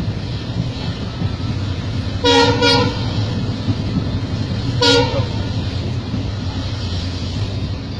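Passenger train carriage rumbling steadily along the track, with three short horn toots: two in quick succession about two seconds in, and one more about five seconds in.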